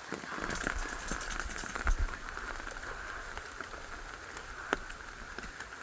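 Steady rain hissing, with scattered sharp drops ticking close by and a louder thump about two seconds in.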